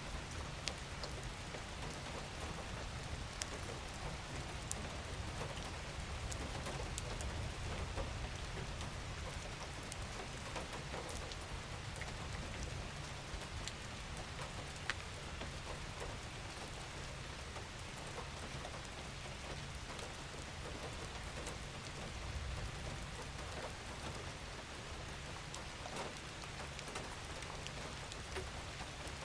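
Steady gentle rain falling on a surface, with scattered individual drop ticks over a low rumble.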